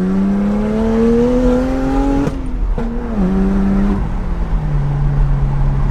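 BMW 135i's 3.0-litre twin-turbo straight-six with a straight-through, catless exhaust, pulling in second gear under light acceleration: the engine note rises steadily for about two seconds, breaks off briefly, holds, then falls to a lower steady note about four seconds in.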